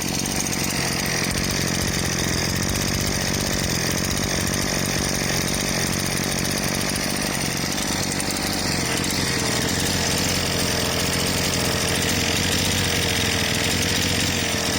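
43cc two-stroke scooter engine running steadily with no muffler fitted.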